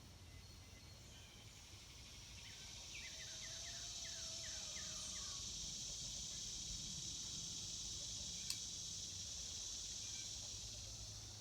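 A cicada's high, steady buzz swells up, holds for several seconds and fades away near the end. A bird calls a quick run of short falling notes partway through, and there is a single sharp click a little later.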